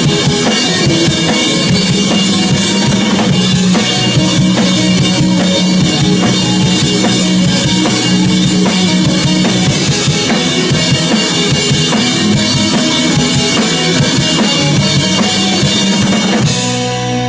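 Rock music driven by a full drum kit playing a busy beat over held bass notes. Near the end the drums drop out, leaving sustained ringing notes.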